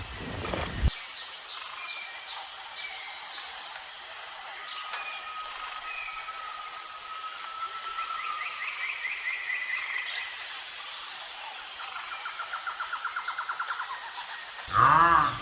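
Outdoor ambience of birds chirping and trilling over a steady high insect hum, after a louder low sound cuts off about a second in. Near the end a loud, arching squeal-like animal call begins.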